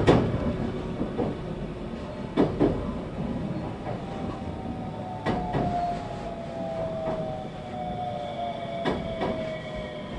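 Interior running sound of a 521-series electric train: a motor whine falls slowly in pitch as the train slows, over a steady rumble. Wheels clack over rail joints a few times, the gaps between the clacks growing longer.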